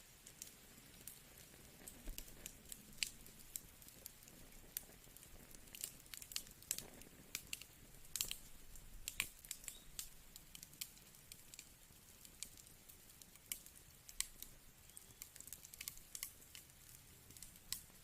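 Wood fire crackling in a fireplace: faint, irregular sharp pops and snaps scattered over a soft hiss.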